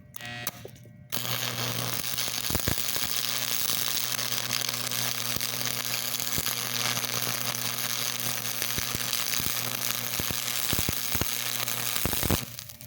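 Arc of a stick welder burning a 6011 electrode: a steady crackling hiss with a low hum underneath, striking about a second in and cutting off near the end.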